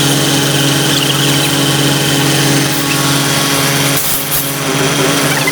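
Heavy vehicle engine running steadily at a constant pitch, with a brief dip in level about four seconds in.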